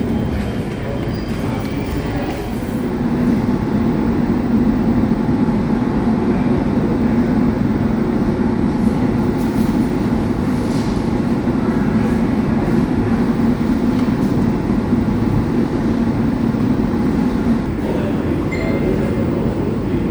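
Steady mechanical rumble with a continuous low hum, unbroken throughout.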